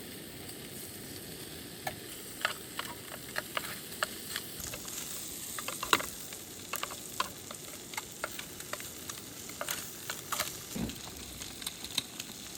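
Food sizzling in a hot pan: a steady hiss with irregular crackles and pops.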